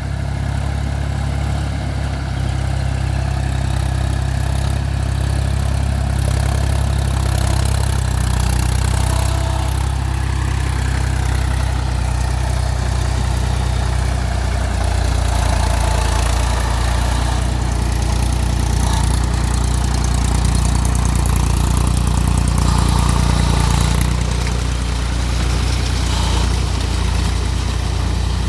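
Mahindra 275 TU tractor's three-cylinder diesel engine running steadily, swelling somewhat louder in the middle and easing back a little a few seconds before the end.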